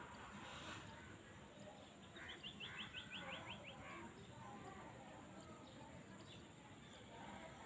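A bird calling: a quick run of about nine short, high notes starting about two seconds in, with a few softer calls over faint outdoor background.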